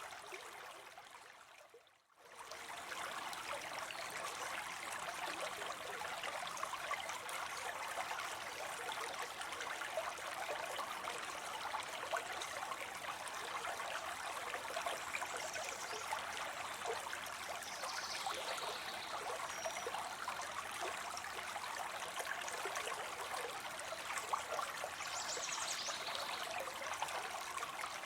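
Water falling and spilling into a pond: a steady splashing trickle. It fades out and drops nearly to silence about two seconds in, then comes straight back.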